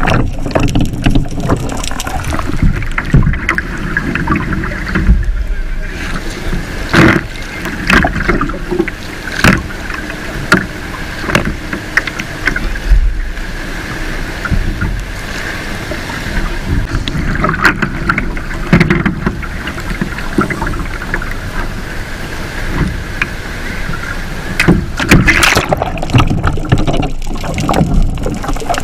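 Kayak paddling on the sea: the paddle blades splash into the water at irregular intervals over a steady wash of water noise.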